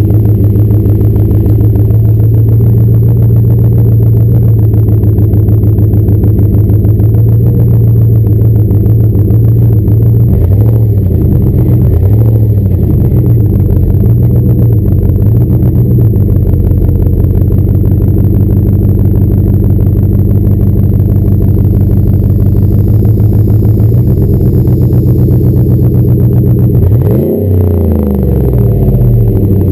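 Ford F-150 Raptor's V8 running through an MBRP aftermarket exhaust. It idles steadily, with a few quick throttle blips about ten to sixteen seconds in and one sharp rev near the end.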